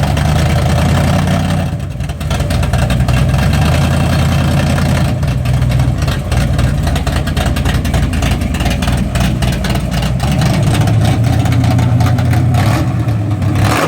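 Truck engine running loudly and steadily, with a brief dip in level about two seconds in.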